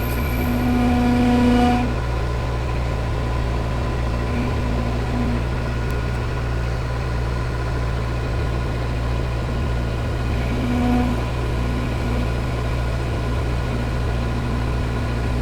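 Metal lathe running with a boring bar cutting inside a bore: a steady motor hum, with a humming tone from the cut that swells briefly about a second in and again near eleven seconds. The tone is typical of boring-bar chatter, from a bar the machinist rates as not the best he has had.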